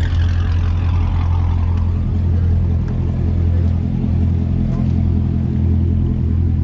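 Car engine and exhaust droning steadily at a low, even pitch while cruising, with a higher rushing sound that fades over the first couple of seconds.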